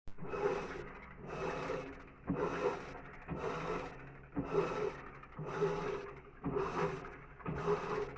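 Electrolux LTD15 top-load washing machine agitating clothes in a tub filled to the high water level: a swish of water and clothes about once a second, each stroke with a motor hum.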